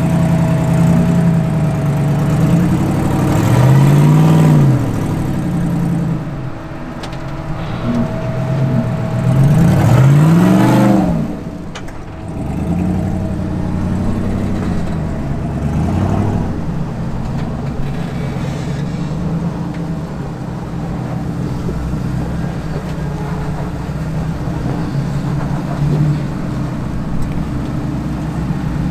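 Off-road Jeep engine running at low speed, revved up and back down hard twice, about four seconds in and again about ten seconds in, with a smaller rev near sixteen seconds, then running steadily.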